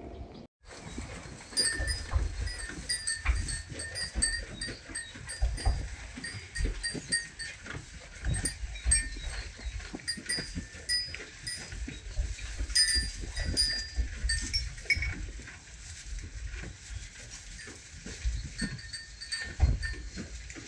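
Small livestock bells clinking irregularly as the animals move, with low knocks and rustling underneath; the sound starts after a brief gap about half a second in.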